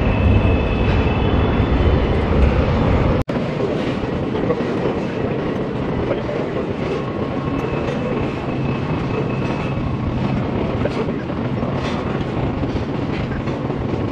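Norfolk Southern freight train rolling past: a steady heavy rumble with wheel noise on the rails and a faint high-pitched squeal. The low rumble is strongest in the first three seconds, then drops after a brief gap.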